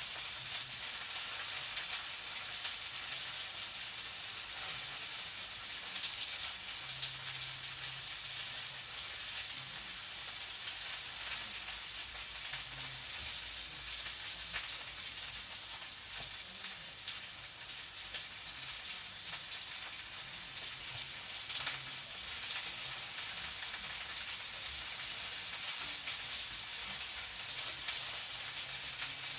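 Food frying in a pan: a steady sizzling hiss with scattered small crackles.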